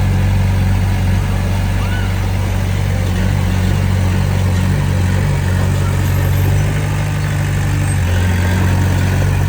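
Heavy earthmoving machine's diesel engine running steadily, a low drone that holds level throughout.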